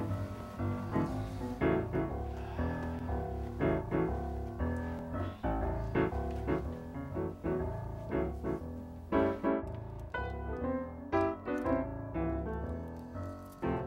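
Background piano music, single notes and chords struck at a moderate pace.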